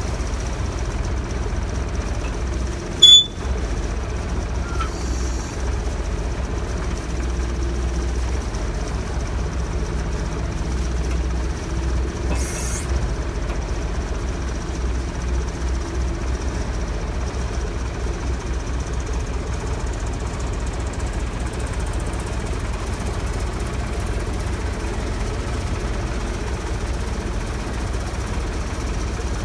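A heavy engine idling with a steady low throb, and a single sharp metallic clank about three seconds in.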